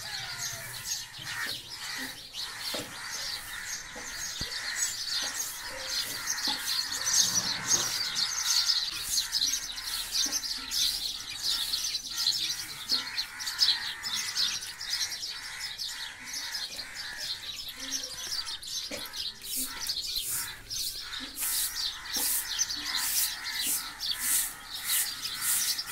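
Small birds chirping and twittering, many short high calls overlapping; in the last several seconds one call repeats in a quick, even run.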